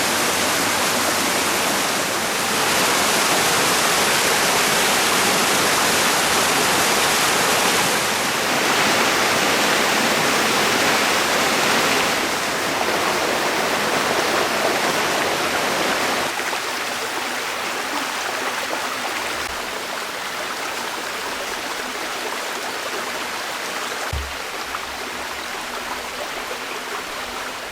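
Waterfall rushing and splashing steadily, growing a little quieter about two-thirds of the way through, with one brief low thump near the end.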